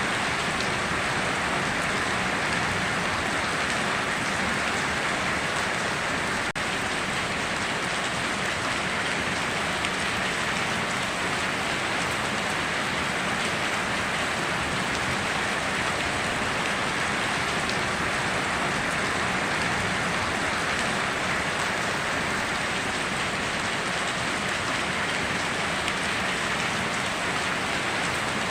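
Steady heavy rain falling, an even hiss of drops with no break in it.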